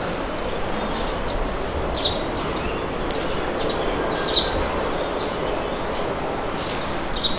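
Steady wind blowing, with a bird giving a few short, high chirps now and then.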